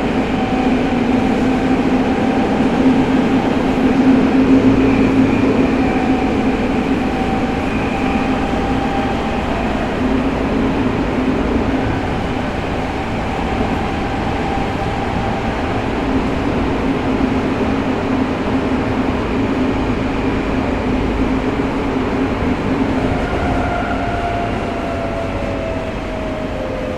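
Tokyo Metro 05 series subway car running through a tunnel, heard from inside: steady rumble of wheels on rail with the hum and shifting tones of its Mitsubishi IGBT-VVVF traction inverter and motors. Near the end a falling motor whine begins, as the train starts braking for the next station.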